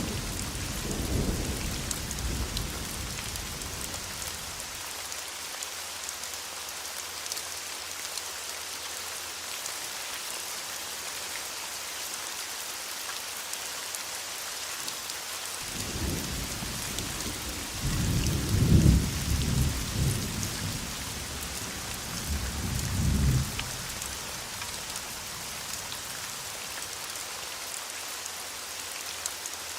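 Steady rain with rolling thunder: a low rumble fades out in the first few seconds, and another builds about halfway through, loudest twice before it dies away a few seconds later.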